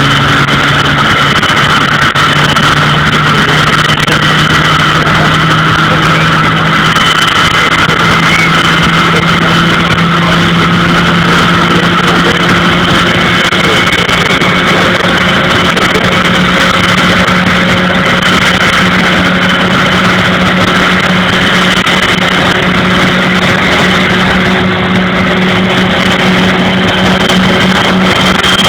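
Vickers Vanguard's Rolls-Royce Tyne turboprop engines running on the ground: a loud, steady high turbine whine over a deep propeller drone whose pitch creeps slowly upward.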